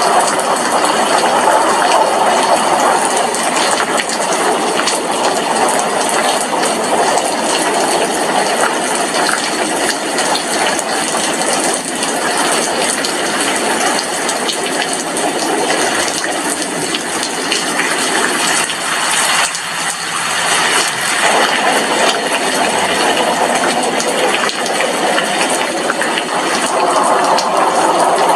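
Steady rain falling on a glass window, a loud even hiss of drops with no break.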